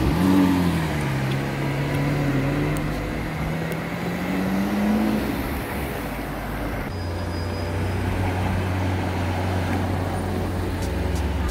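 Lamborghini Aventador V12 pulling away at low speed. The engine note dips in the first second, then climbs slowly for about four seconds and fades, leaving a steady low traffic rumble.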